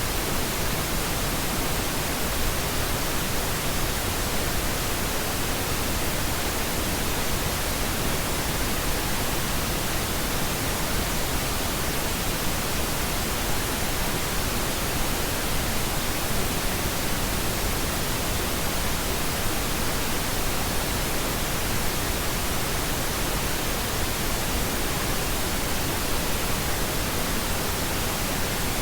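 Steady synthetic pink noise: an even, unchanging hiss spread across the whole range, with no changes or other sounds.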